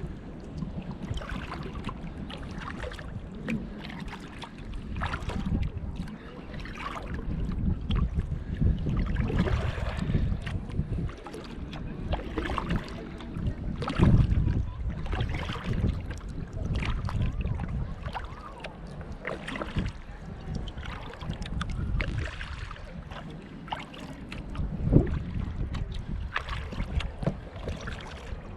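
Kayak paddle dipping and splashing stroke after stroke, with wind rumbling on the microphone. There are a couple of louder knocks or splashes, one about halfway through and one near the end.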